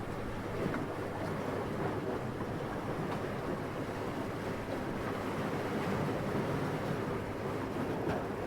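Soft, steady wind: an even rushing noise with no distinct gusts.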